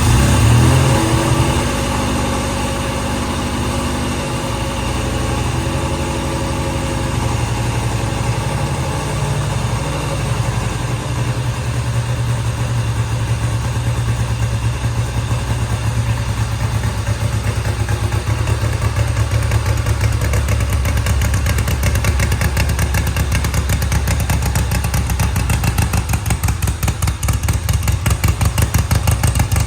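1970 Triumph TR6C 650cc single-carburettor twin idling on choke just after a cold start. It runs a little faster in the first couple of seconds, then settles into a steady idle whose firing beat grows more distinct in the last third.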